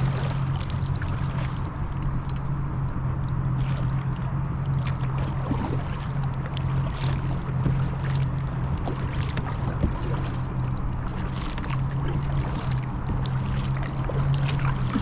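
Kayak being paddled: the paddle blades splash in and drip about every two seconds, and water washes along the hull, over a steady low hum.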